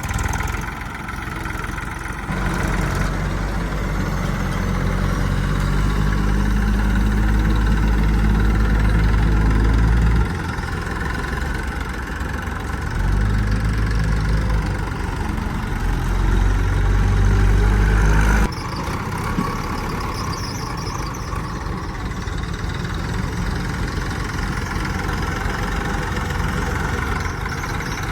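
Diesel engine of heavy machinery running. Its low note swells heavier and louder for two stretches of several seconds each, then drops back to a lighter, steady run about two-thirds of the way through.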